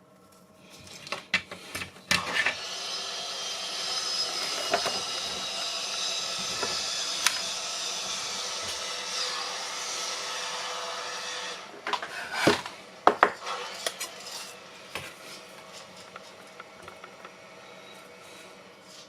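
Bench work: a few sharp clicks and knocks as things are handled, then about nine seconds of steady scraping of a tool against a workpiece, then more knocks and clicks as it stops.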